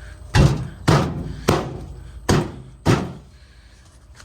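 Five sharp knocks or thunks over about two and a half seconds, each dying away quickly; they are most likely from handling the outdoor unit's panels and parts.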